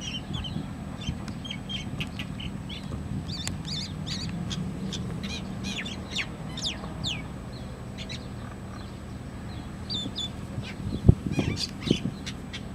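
Small birds fighting, giving many short, sharp chirps, some sliding down in pitch, over a steady low hum. A sharp thump about 11 seconds in is the loudest sound, followed by a couple of lighter knocks.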